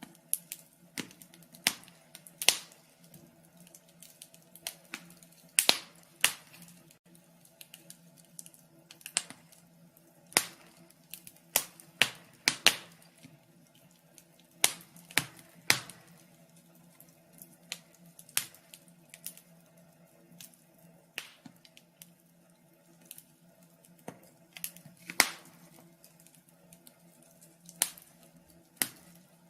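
Fire crackling: a run of sharp, irregular pops and snaps, some much louder than others, over a faint steady hum.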